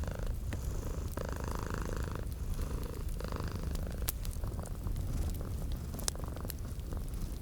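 Domestic cat purring steadily in a low rumble, layered with the scattered crackles and pops of a wood fire in a fireplace.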